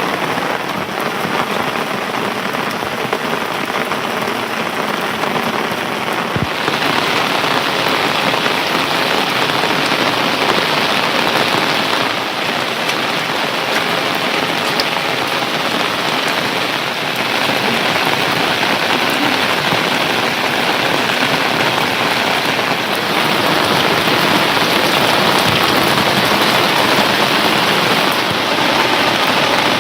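Heavy monsoon rain falling steadily, a dense, even hiss of drops; the hiss grows brighter about six seconds in.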